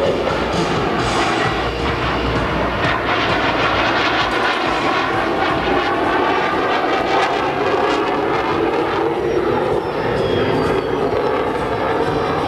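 Jet aircraft engine noise from a display flight: a loud, continuous roar, with a faint falling whine about nine seconds in.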